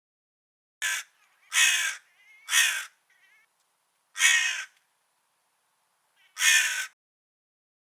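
A crow cawing: five harsh caws, three in quick succession near the start, then one a little after the middle and a last one near the end.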